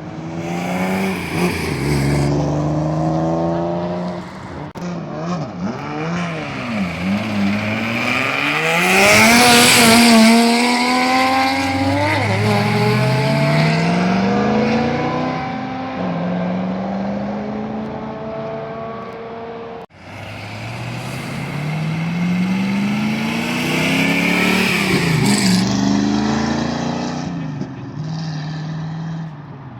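A vehicle launching and accelerating hard, its engine pitch climbing and dropping back at each of several gear changes, loudest as it passes about ten seconds in. After a sudden cut about twenty seconds in, a second launch is heard, again accelerating through its gears.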